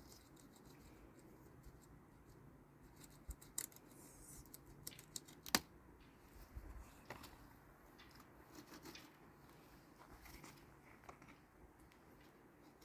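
Quiet background with scattered faint clicks and light scraping, as of small objects being handled; one sharper click about five and a half seconds in.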